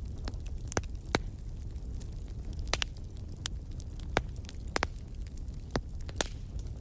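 Wood fire crackling: sharp, irregular pops and snaps over a steady low rumble of burning.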